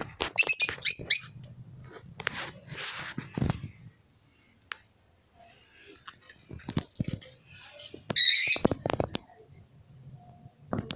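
Lovebirds calling: a quick run of high, shrill chirps in the first second and a loud shrill call about eight seconds in, with scattered small clicks and taps between.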